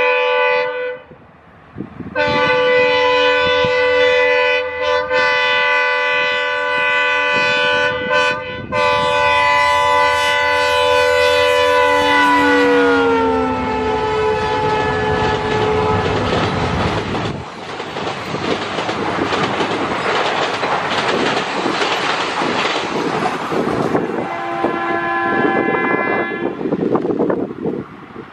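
Diesel locomotive's air horn: a short blast, then a long multi-tone blast of about ten seconds whose pitch drops as the locomotive passes. Passenger coaches then rumble and clatter over the rail joints. Near the end a second train horn sounds for a couple of seconds from the approaching DEMU.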